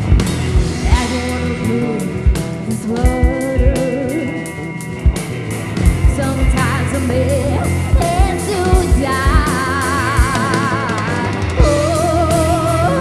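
Live psychedelic rock band playing, with steady drum hits, guitar and a sung melody.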